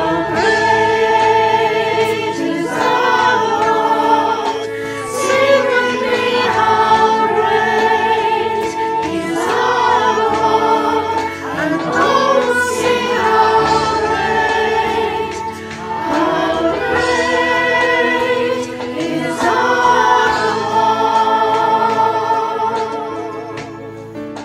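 Music: a group of voices singing a worship song, with long held notes that waver in pitch, fading out near the end.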